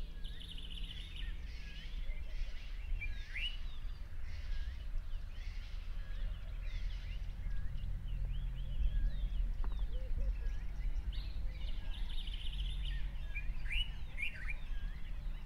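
Several wild birds chirping and calling: short rising and falling whistles and a repeated rattling trill, heard near the start and again near the end, over a steady low rumble.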